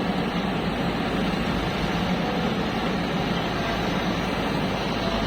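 Heavy diesel engine running steadily with a constant low drone.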